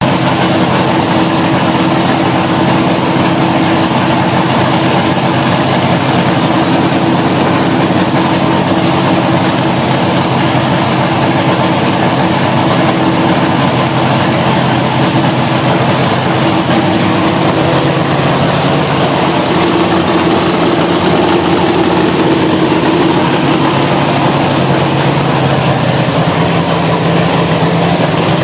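Big-block V8 race engine running steadily at a high idle, loud and even, with a slight shift in pitch in the second half.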